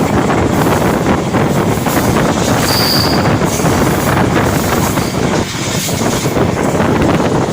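Passenger train running at speed, its wheels rumbling and clattering on the rails, with wind buffeting the microphone. A brief high squeal about three seconds in.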